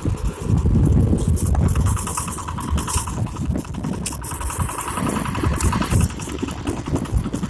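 Mitsubishi tractor engine running steadily with an even, rhythmic beat.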